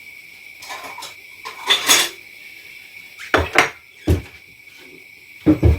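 Kitchenware clattering: a wooden board and a plate being set down and handled on the counter, with about six knocks and clinks, the loudest about two seconds in and a double knock near the end.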